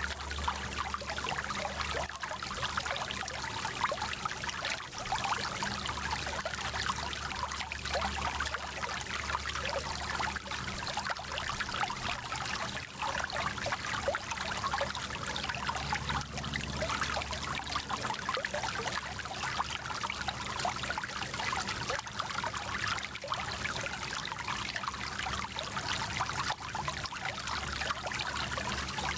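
Small mountain stream running over stones: steady rushing and trickling water with fine splashing flickers throughout.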